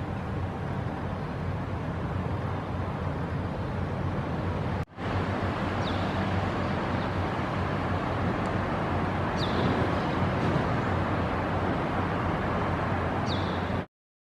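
Steady outdoor background noise like distant traffic, with a short, high, downward-sweeping bird chirp heard three times in the second half. The sound drops out for a moment about five seconds in and stops abruptly just before the end.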